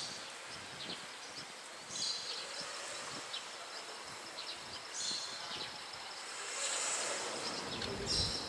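Outdoor ambience: a steady background hiss, with short high-pitched chirps or buzzes every couple of seconds.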